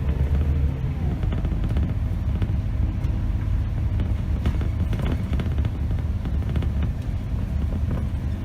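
Scania K270 city bus on the move, heard from the driver's seat: a steady low diesel engine rumble with light cabin rattles and clicks.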